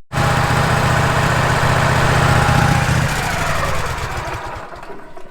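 Wood-Mizer sawmill engine running steadily, then dying away over the last two seconds.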